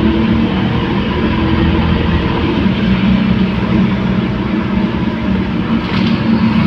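Scania K230UB city bus's 9-litre five-cylinder diesel running under way over steady road noise, its engine note strengthening and easing by turns. A brief sharp click about six seconds in.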